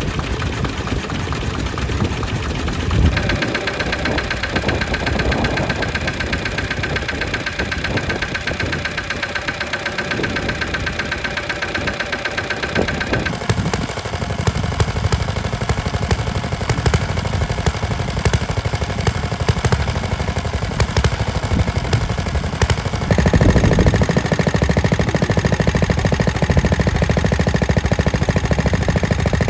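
Vintage stationary engines running steadily, the engine sound changing abruptly about three, thirteen and twenty-three seconds in, with wind buffeting the microphone.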